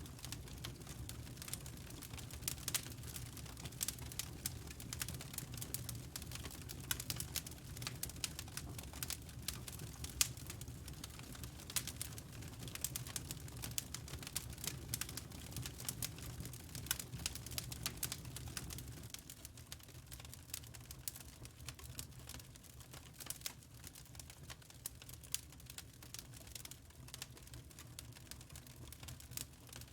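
Fireplace fire crackling: an irregular, quick run of sharp pops and snaps over a low rumble. The rumble drops away about two-thirds of the way through, leaving the crackle.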